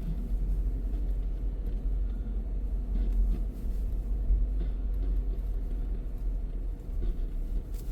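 Car driving along, with a steady low rumble of tyres on the road and the engine.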